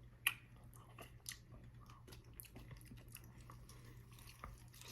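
Faint chewing of a greasy Wendy's Baconator bacon cheeseburger, with scattered short wet mouth clicks, the sharpest about a quarter second in, over a low steady hum.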